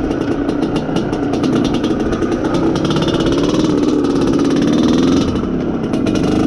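IZh Planeta Sport motorcycle's single-cylinder two-stroke engine running under way, its pitch rising and falling a little with the throttle. The engine is being run in.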